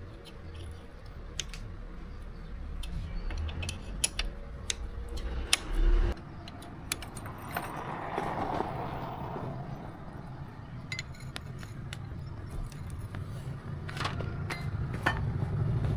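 Small metal parts and tools clinking and tapping as they are handled, with scattered sharp clicks and one dull thud just before six seconds in.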